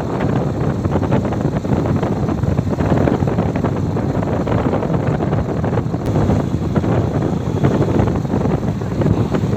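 Wind rushing over the microphone on a moving bike: a loud, steady, rumbling rush.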